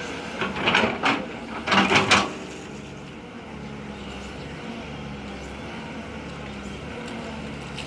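Heavy machinery running: a steady low engine drone, with several loud clattering, scraping bursts during the first two seconds.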